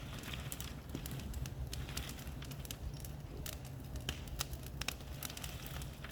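Bonfire crackling and popping, with irregular sharp cracks over a steady low rumble.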